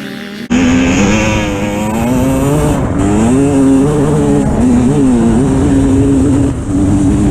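Dirt bike engine revving up and down as it is ridden, its pitch climbing and dropping several times. It cuts in loud and abruptly about half a second in.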